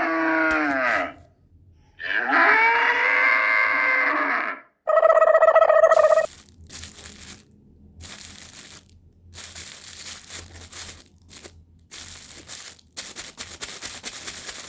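Cattle mooing: two long moos, then a shorter steady one, followed by several seconds of on-and-off hissing noise.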